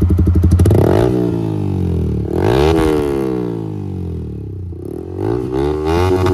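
Yamaha R15 V3's single-cylinder engine running through an aftermarket SC Project-style exhaust. It idles with an even rapid pulse, then from about a second in is revved up and down in several throttle blips.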